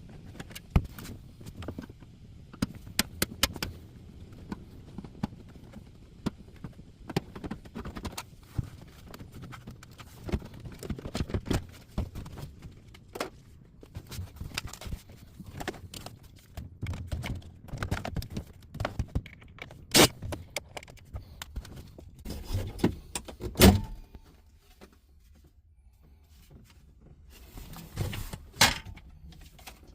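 Scattered clicks, clinks and knocks of hand tools, screws and trim pieces as a car's under-dash kick panel and trim are unscrewed and pulled off. Two louder knocks come about two-thirds of the way through, then a short lull.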